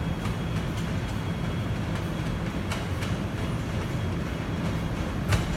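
Guangzhou Metro Line 1 train running with a steady low rumble and hum, with two sharp clacks, the second and louder one near the end.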